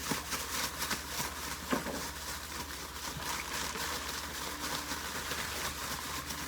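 Hot cooking oil sizzling and crackling steadily as breaded shrimp fry.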